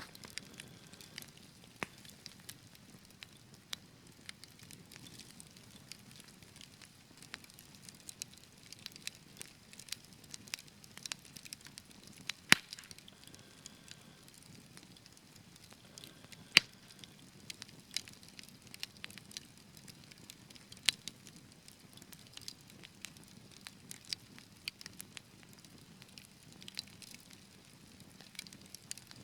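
Wood fire burning in a fireplace with a steady low hiss and frequent irregular crackles, with a few sharp loud pops about 12 and 16 seconds in.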